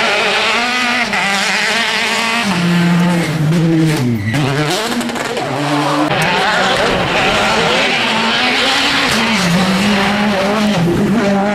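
Rally car engine revving hard. Its pitch rises and falls through the gear changes, dips sharply about four seconds in, then climbs again as the car accelerates.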